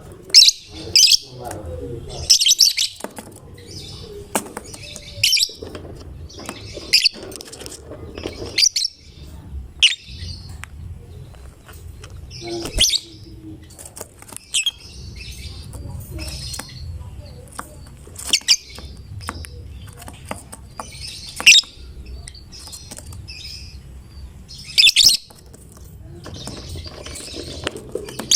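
Lovebird calling in sharp, shrill chirps and short chattering clusters, coming irregularly every second or so, a few of them very loud.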